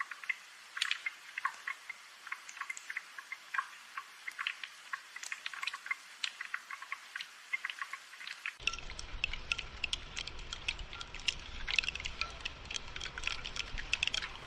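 Rain falling in separate drops, dripping and pattering in quick irregular ticks. About eight and a half seconds in, the sound shifts abruptly to a denser patter with a faint low rumble underneath.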